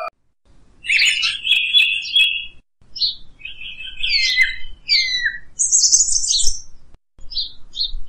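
A bird chirping and whistling: a run of varied high chirps and downward-slurred whistles that starts about a second in, with a few sharp clicks near its start and short pauses between phrases.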